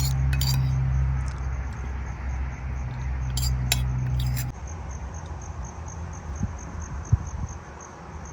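Insects chirping in a steady high pulse, about four a second, with a few sharp clinks in the first half. A low hum runs under them and stops about halfway through.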